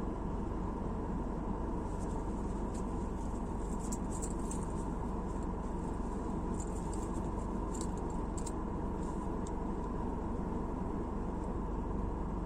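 Steady road and engine noise inside a moving car's cabin, a low even rumble. Faint scattered high-pitched ticks come through between about two and nine seconds in.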